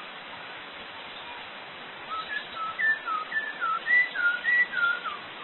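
A string of about ten short, clear whistled notes, starting about two seconds in, each sliding up or down in pitch in a back-and-forth pattern, part of a whistling exchange between a man and a zoo bird that mimics him.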